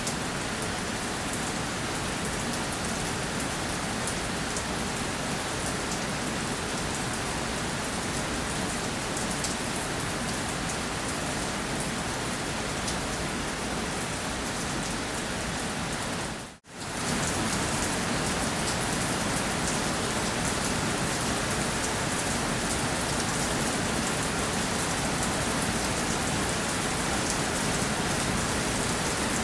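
Steady rainfall: an even hiss of rain with many fine drops pattering on a surface. About halfway through it fades out to silence for a split second and comes straight back, a little louder.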